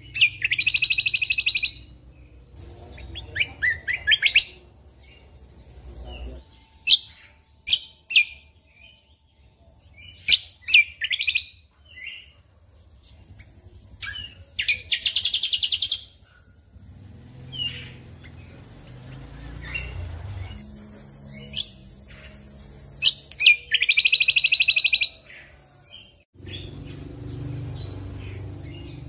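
A cucak kombo (kecial kombok) singing: short sharp chirps scattered throughout, broken three times by a loud, rapid trilled burst, near the start, about halfway through and near the end.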